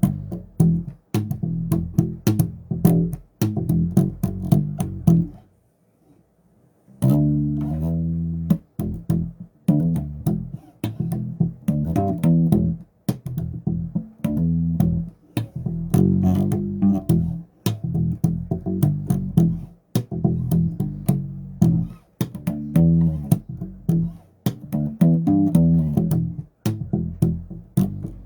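Bass guitar played solo: a run of plucked low notes in a loose groove, stopping for a moment about six seconds in, then carrying on.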